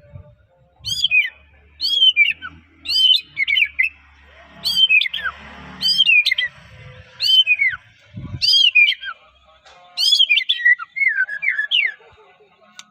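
White-rumped shama (murai batu, Medan type) in full song: loud repeated phrases about a second apart, each a clear whistle sliding down from high to lower pitch with quick twittered notes. A low thump comes a little past eight seconds in.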